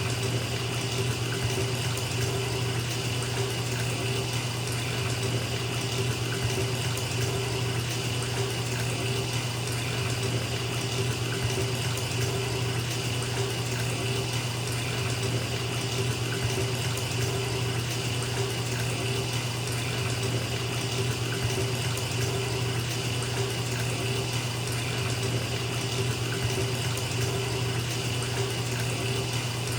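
Bathtub filling from a running tap: a steady rush of water pouring into the tub, with a low hum beneath it.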